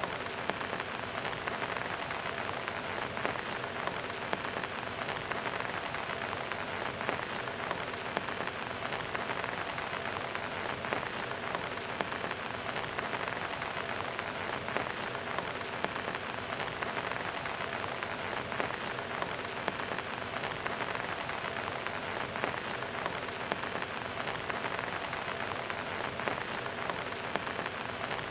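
Steady rain falling, many drops pattering and splashing on the top of a concrete wall in a dense, even hiss of small hits.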